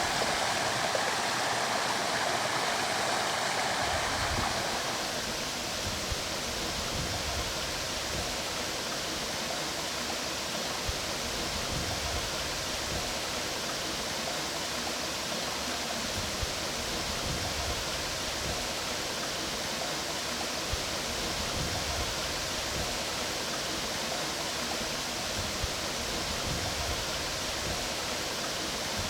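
Mountain stream water rushing over rocks, a steady even rush. About four seconds in it changes to a thinner, hissier flow with small low burbles.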